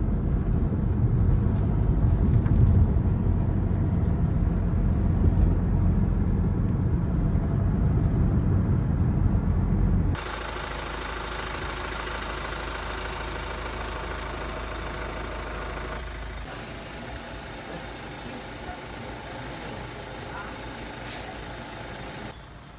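Low rumble of a vehicle on the move, which cuts off suddenly about ten seconds in. A quieter, even hiss follows and drops lower about sixteen seconds in.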